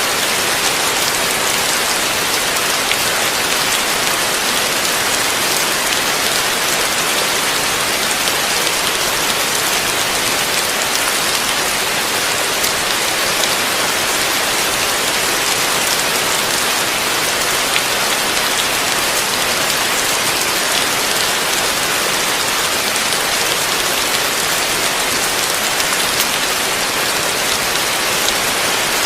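Heavy rain falling steadily, a dense even hiss of drops with fine pattering throughout.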